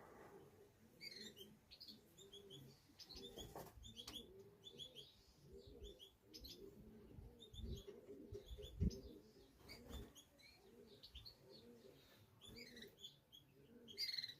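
Pigeons cooing over and over, faint and low, with small birds chirping and twittering above them. A few low thumps come between about seven and ten seconds in, one sharper than the rest.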